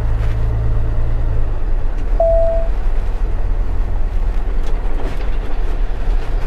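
Box truck engine and road noise while driving, a steady low drone whose note drops slightly about a second and a half in. A single short beep sounds about two seconds in.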